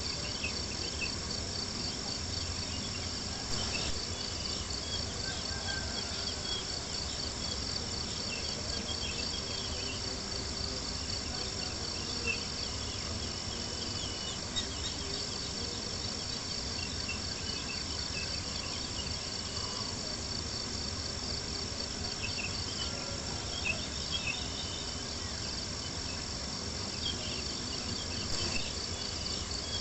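Crickets trilling steadily in a dense, pulsing chorus, with a few sharp pops from a crackling campfire now and then.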